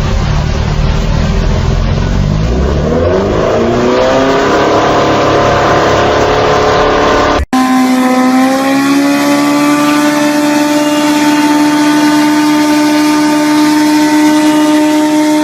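Motorcycle engine revving, its pitch climbing steadily over several seconds. After an abrupt cut, an engine is held at high revs with a steady high pitch.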